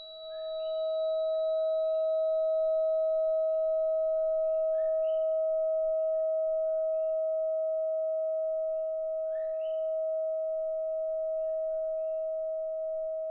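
639 Hz Solfeggio tuning fork ringing after a strike: one steady, pure tone with a faint high shimmer that dies away within the first few seconds.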